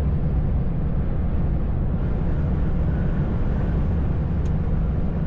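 Steady drone of a truck heard from inside the cab: the engine and tyre noise running evenly with no change in pitch. A single faint tick comes about four and a half seconds in.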